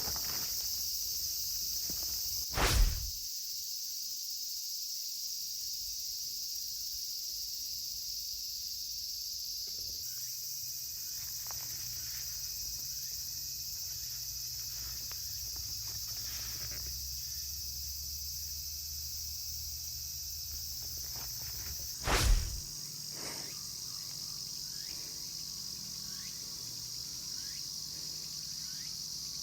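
Steady high-pitched chorus of insects in woodland, with two loud thumps, one about three seconds in and one about twenty-two seconds in.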